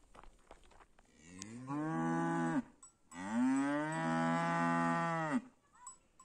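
Cattle mooing: two long moos, the second longer and louder, each rising in pitch at the start and dropping off at the end.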